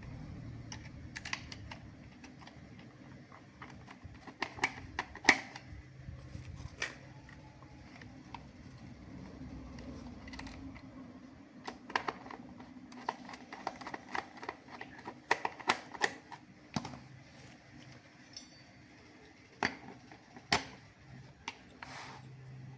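Irregular sharp clicks and taps, bunched in a few flurries, over a faint steady low hum.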